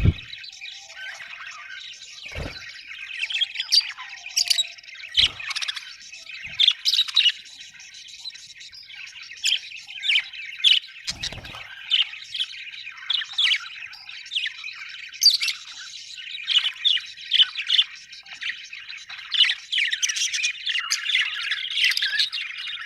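A group of budgerigars chirping and squawking continuously, many short overlapping calls, with a few brief soft knocks among them.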